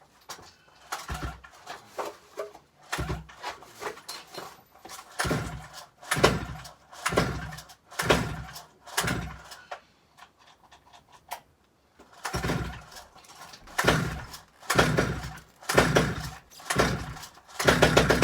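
STIHL 009 two-stroke chainsaw being pull-started over and over on starter fluid: short recoil-starter pulls about once a second, a brief pause, then another run of pulls, the last one longer.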